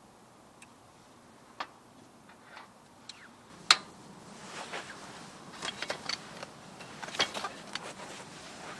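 Small objects being handled: scattered clicks and knocks, one sharp click a little after three and a half seconds in, over a soft hiss that starts about then.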